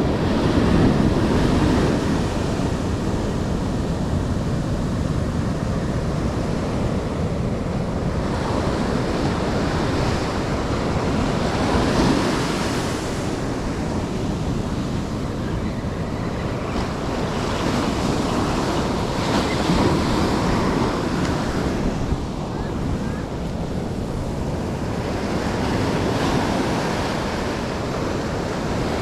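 Ocean surf breaking on a beach, a steady rush that swells several times as waves break and wash in, with wind rumbling on the microphone.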